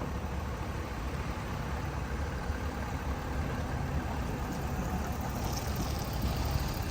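Ford F-250 pickup driving down the road, a steady low engine rumble mixed with tyre and road noise.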